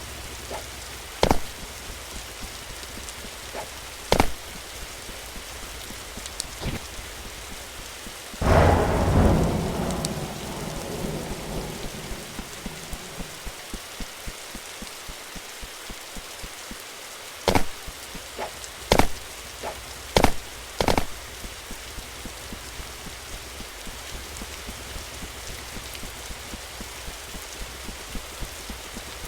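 A steady hiss like rain, broken by several sharp knocks and a low rumble that swells about a third of the way in and fades over a few seconds.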